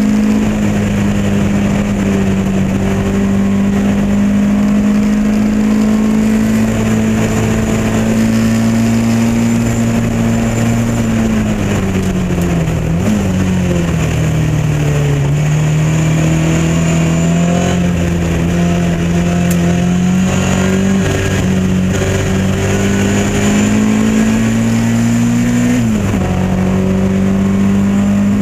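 Lotus Elan race car engine running hard at racing speed, its pitch held high and slowly climbing. A little under halfway it drops in steps as the car slows and changes down, then climbs steadily again. Near the end it makes a quick dip and recovery, as on a gear change.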